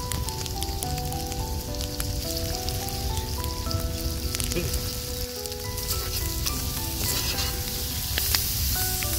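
Chicken hearts and tomato wedges sizzling in oil in a large pot over a wood fire. The sizzle brightens near the end as the pot is stirred with a ladle. A soft melody of single held notes plays along with it.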